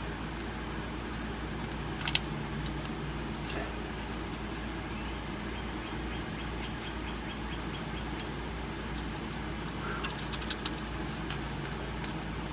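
A steady low machine hum, with a sharp metallic clack about two seconds in, a run of light even ticks in the middle, and a few small metal clinks near the end, from hand tools on the airbag mounting hardware.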